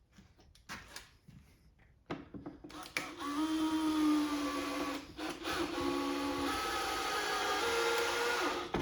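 A few light clicks of tools being handled, then a small power-tool motor whirring steadily in two runs with a brief break between them, its pitch stepping up and down as the load changes.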